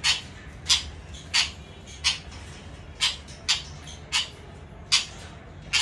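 Sun conure giving short, sharp, high-pitched chirps, about nine in a row, roughly one every 0.7 seconds.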